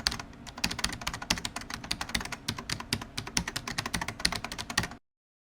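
Fast typing on a computer keyboard, a dense run of key clicks that stops suddenly near the end.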